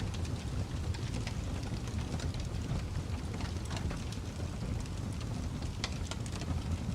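Wood fire crackling and popping over a low steady rumble of burning, with frequent sharp irregular pops and a louder pop about six seconds in.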